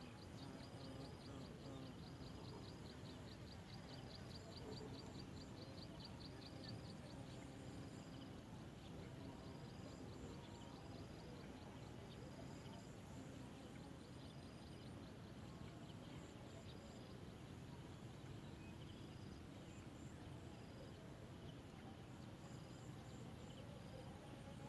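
Faint outdoor ambience of insects chirping: rapid high-pitched pulsed trills, long runs at first and then short bursts every second or two, over a steady low hiss.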